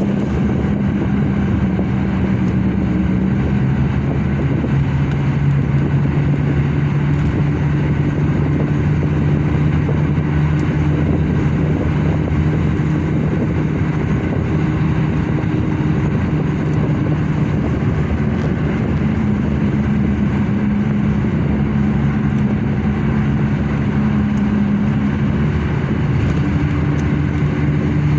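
Car driving: steady engine hum with road and tyre noise. The engine note shifts pitch a few times.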